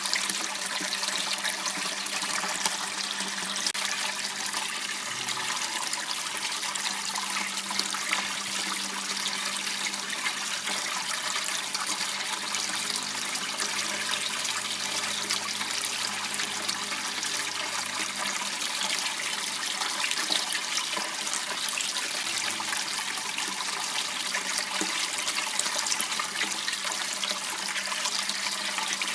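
Water running steadily in a small waterway, a constant trickling splash.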